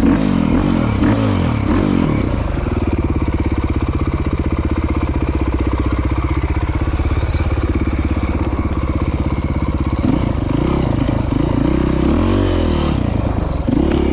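Dirt bike engine heard close up from the rider's own machine. Its revs rise and fall for the first couple of seconds, hold steady for several seconds, then rise and fall again near the end.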